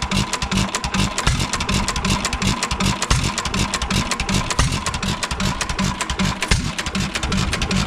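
Rebuilt 1 3/4 hp Hercules single-cylinder gas engine running on its own with a steady, even beat and sharp mechanical clicks.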